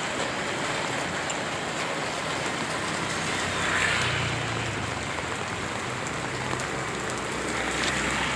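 Steady rain falling, with a motor vehicle passing about four seconds in and another approaching near the end.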